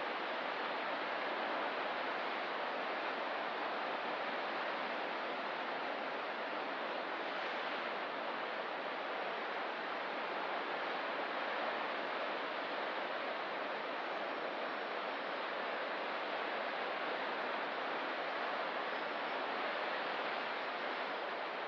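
Ocean surf as a steady, even wash of noise, with no single wave breaks standing out.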